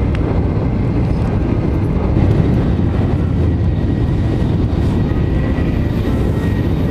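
Tokaido Shinkansen Nozomi train running at high speed, heard from inside the passenger cabin: a steady low rumble, with a faint thin high tone from about two seconds in.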